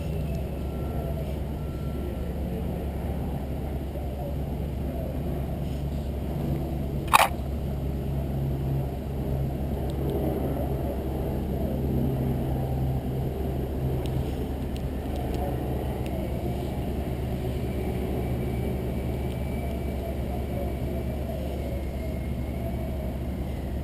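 Steady low rumble of outdoor background noise, with one sharp click about seven seconds in.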